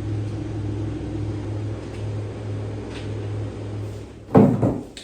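Low, steady rumble like a vehicle running, with a brief loud sound about four seconds in.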